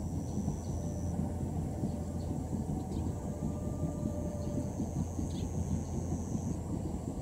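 Low, unsteady rumbling noise of a distant passing E001 Shiki-shima train mixed with wind on the microphone. Thin, steady high-pitched tones sit on top.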